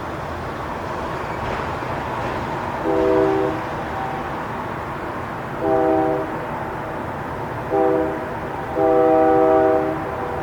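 Train air horn sounding four blasts, three short ones and a final longer one, each a chord of several steady tones. They sound over a steady rumble of the train.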